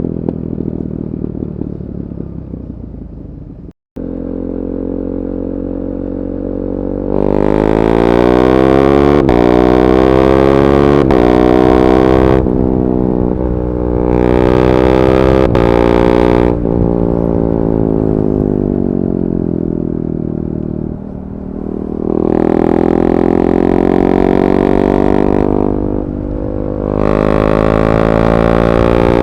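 KTM 390 Duke's single-cylinder engine through a decat pipe and Akrapovic slip-on exhaust, ridden hard. After a brief cut a few seconds in, it accelerates with a rising pitch broken by quick quickshifter upshifts, then its pitch falls as it slows, and it pulls up through the revs again twice near the end.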